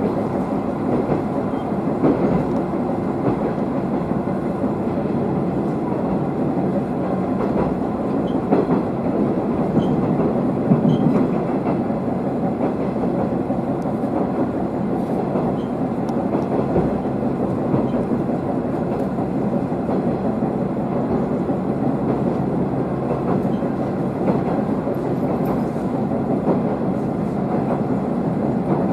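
Diesel railcar running along the line, heard from inside the car: a steady engine and wheel-on-rail rumble with light clickety-clack, a little louder a few times along the way.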